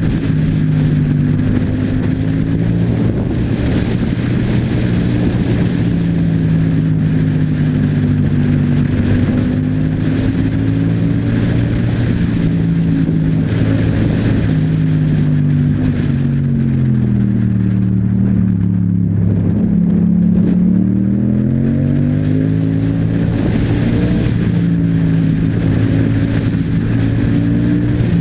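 Yamaha MT-07's parallel-twin engine breathing through an Akrapovic exhaust while riding: a steady engine note that falls in pitch as the bike slows about two-thirds of the way in, then rises again as it accelerates.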